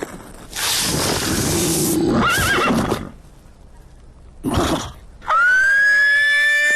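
Cartoon sound effects: a noisy rushing sound, then a short warbling whinny-like cry, then about five seconds in a long high-pitched wail that sweeps up and then holds steady.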